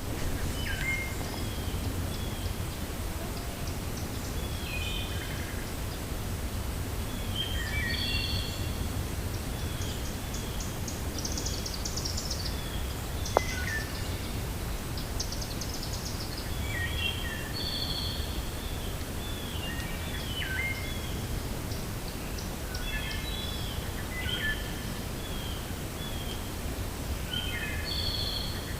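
Wind blowing through a forest as a steady low rumble, with several songbirds chirping and calling in short repeated phrases throughout. A single sharp click about halfway through.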